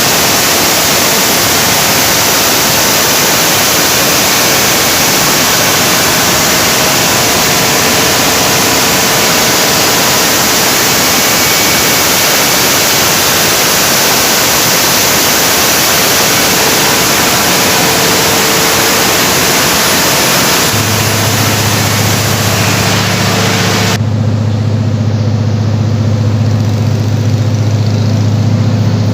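Generator running under load test with a loud, steady rush of air and engine noise; near the end a steady low engine hum comes through, and the rushing noise suddenly drops away, leaving the hum.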